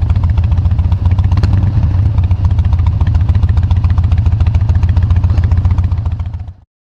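Harley-Davidson Dyna Wide Glide's V-twin engine running steadily through its exhaust with a rapid, even pulsing beat, fading out sharply near the end.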